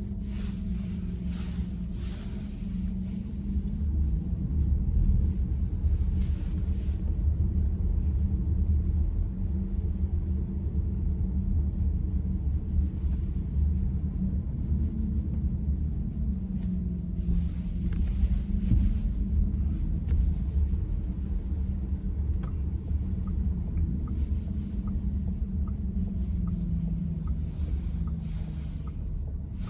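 Car being driven, with a steady low rumble of engine and road noise. The steering column is quiet here, with no sign of the noise it makes elsewhere. A faint regular ticking comes in for a few seconds near the end.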